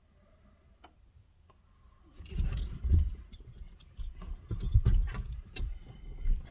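Metal jingling with many sharp clinks over a low rumble of handling noise, starting about two seconds in.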